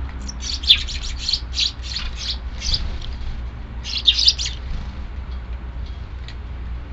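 Eurasian tree sparrows chirping in quick bursts of short calls for the first few seconds and again briefly about four seconds in, over a steady low rumble.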